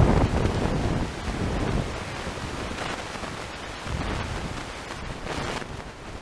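Wind buffeting the microphone in gusts, a low rumbling rush that is strongest at the start and eases off after a couple of seconds.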